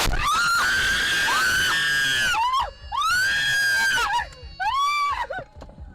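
A person screaming: three long, high screams, the first lasting over two seconds and the last shorter, each falling off at its end.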